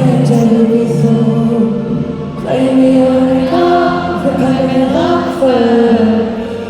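Live pop concert music with many voices singing held notes together, in the manner of a choir.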